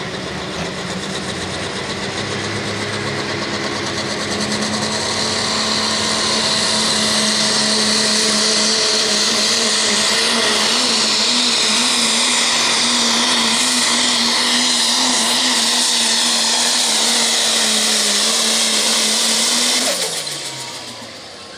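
Dodge pickup's diesel engine at full throttle, pulling the sled down the track. It builds in the first few seconds, then runs hard and steady. About twenty seconds in, the throttle is let off and the engine winds down, its pitch falling as the sound fades.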